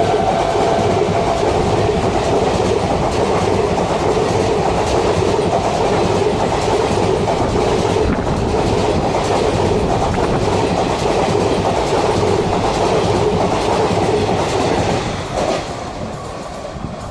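Indian Railways express train passing at speed close by: a loud steady rush of wheels on rails with the clatter of coaches over the track. The tail of its horn dies away at the very start, and the noise falls off about fifteen seconds in as the last coaches go by.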